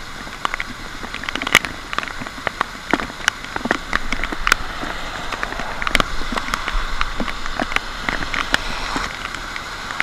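Rain falling, a steady hiss with irregular sharp drops ticking close by.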